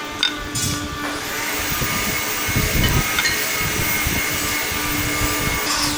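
An electric woodworking power tool's motor starts about a second in, whines up to speed and then runs steadily at a high pitch.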